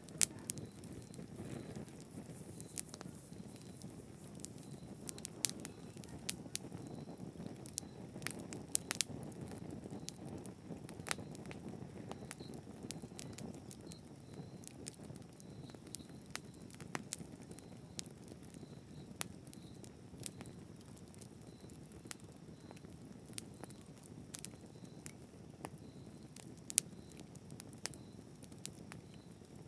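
Campfire burning steadily with a low, even rumble of flame and frequent sharp, irregular crackles and pops of burning wood.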